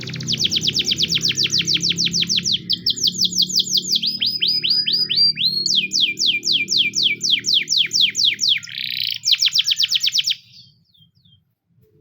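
Russian canary singing fast trills, each a rapid run of falling whistled notes, switching from one trill to the next every second or two. The song stops abruptly near the end.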